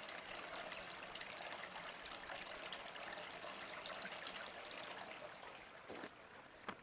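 Mountain valley stream: a steady hiss of flowing water, easing a little near the end, with a couple of faint ticks.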